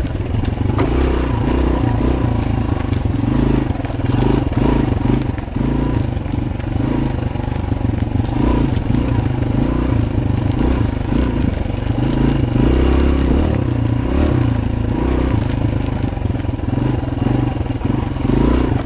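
Dirt bike engine running while being ridden, its note swelling and easing every second or two over a steady low rumble.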